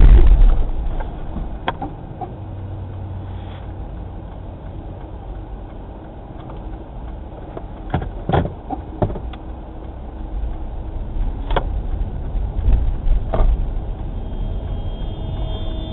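Steady low road and engine rumble of a moving car, with a few sharp clicks and knocks scattered through it.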